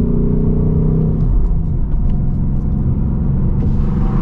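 2024 Ford Mustang GT's 5.0-litre V8 and stock active exhaust under way, heard from inside the cabin: a steady engine drone for about the first second, then it drops back to a lower, even rumble.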